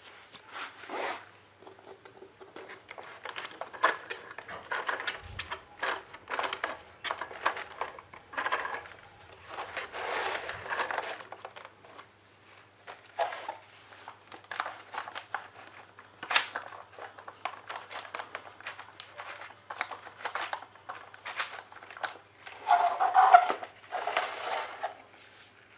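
Toys and plastic packaging being handled: irregular clicks, knocks and crinkling rustles, with a louder burst about three seconds before the end.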